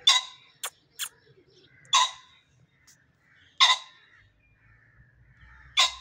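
A bird calling loudly and harshly four times, about two seconds apart, with two short sharp clicks in the first second.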